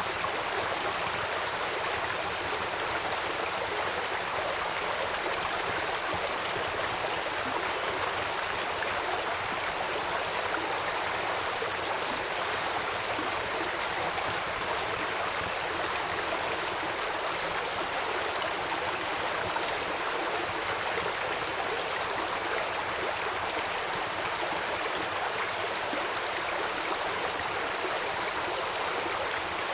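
Steady rush of flowing stream water. From about a third of the way in until near the end, a short high chirp repeats about one and a half times a second above it.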